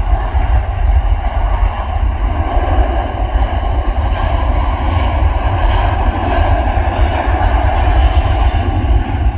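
Jet airliner engines at high power, a loud steady roar with a heavy deep rumble underneath.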